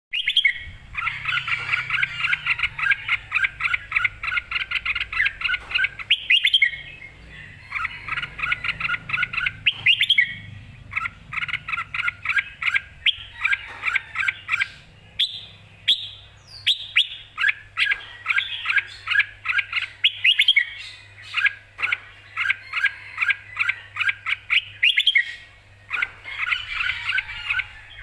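Red-whiskered bulbul singing in rapid chirping phrases a few seconds long with short pauses between, in a lively, combative mood.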